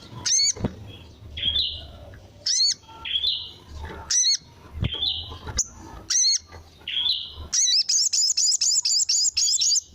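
Crimson sunbird (sogon) calling: sharp high chirps at a steady pace of one every half second or so, then near the end a fast run of about ten notes.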